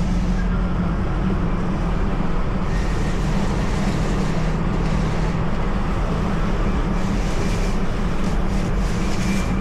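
Steady engine and road noise inside a moving SUV's cabin, with the tyres hissing and spraying through water on a rain-soaked, flooded road.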